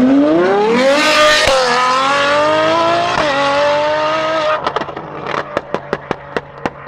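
Supercar engine under hard acceleration, its note climbing and dropping sharply twice at quick upshifts. About four and a half seconds in the note falls away and a rapid string of sharp exhaust pops follows as the driver lifts off.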